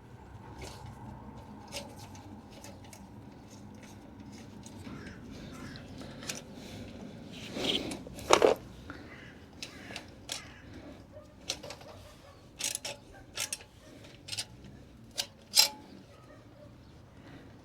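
Scattered metal clicks and knocks of hand tools, a socket wrench being worked on a motorcycle fastener, at irregular spacing, with a louder knock about eight seconds in and several more sharp ones later on.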